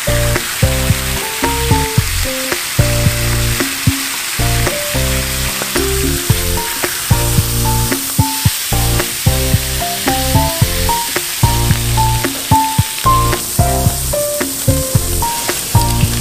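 Bacon strips and beef burger patties frying on a flat-top griddle, a steady sizzle throughout. Background music with a regular beat and short plucked notes plays over it.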